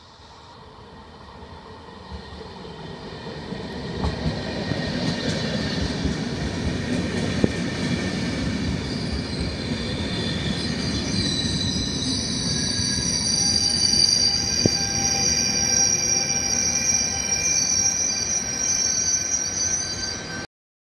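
Regional push-pull train of Vivalto double-deck coaches with an E464 electric locomotive pulling into the station and braking. A rumble builds over the first few seconds and then holds steady. From about halfway a squeal of several high tones sets in as it brakes, lasting until the sound cuts off suddenly near the end.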